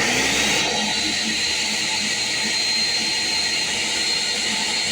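Ninja NJ601AMZ 1000-watt blender motor kicking on suddenly, its whine rising over the first half-second, then running steadily at full speed. It runs only while the pause button is held down: the blender won't stay on through its speed settings.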